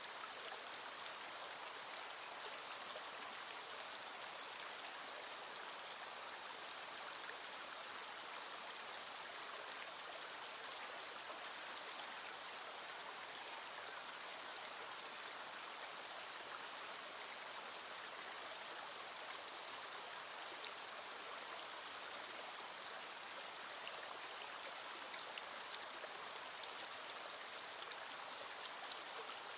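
Small stream flowing steadily, an even rushing of water.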